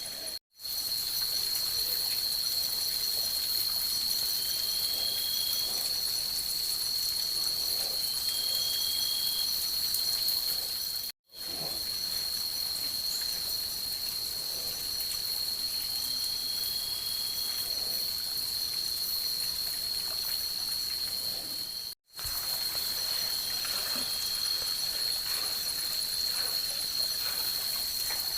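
Night insect chorus of crickets, a steady high-pitched buzz, over a soft hiss of trickling water. The sound cuts out briefly three times.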